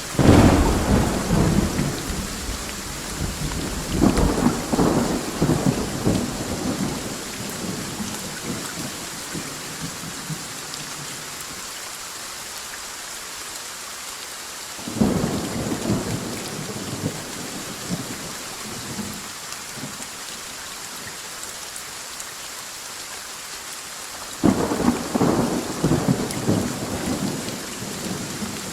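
Steady rain with a sudden loud thunderclap at the start that rolls on for a few seconds. Three more peals of rumbling thunder come about four, fifteen and twenty-four seconds in.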